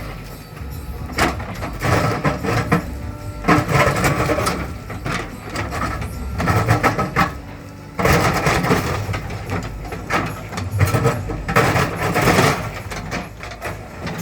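JCB 3DX Plus backhoe loader's 74 hp diesel engine running under load while digging hard ground, with irregular bursts of scraping and knocking from the bucket working the soil.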